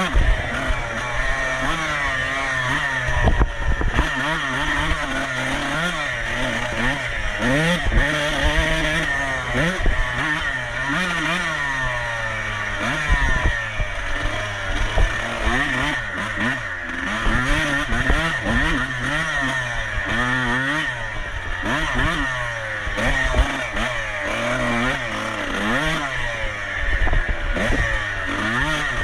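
Dirt bike engine racing, revving up and dropping back again and again as it works through the gears, with frequent low thuds throughout.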